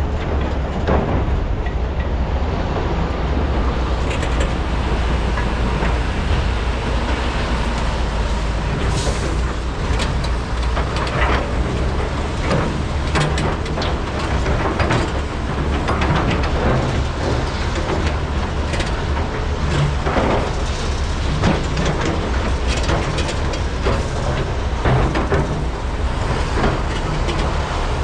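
Large hydraulic mining excavators (a Komatsu PC395 and two SANY SY485H) working under load, their diesel engines giving a steady low rumble, with frequent irregular clanks and knocks of buckets and rock during truck loading.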